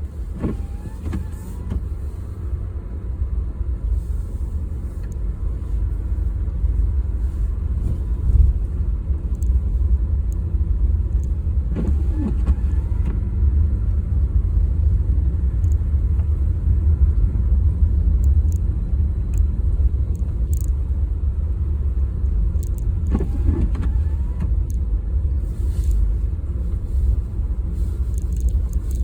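A car driving, with a steady low rumble of road and engine noise heard inside the cabin. A short squeak comes about every eleven seconds.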